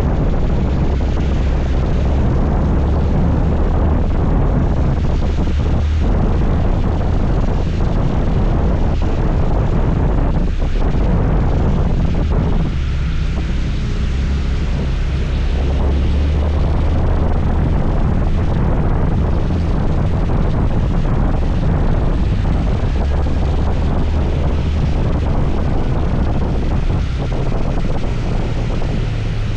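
Steady, loud rush of a scooter ride: wind buffeting the microphone over the engine and road noise.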